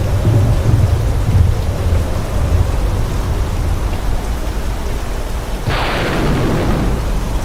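Steady heavy rain with a continuous low thunder rumble. About six seconds in, a sharper thunderclap breaks and fades over a second or two.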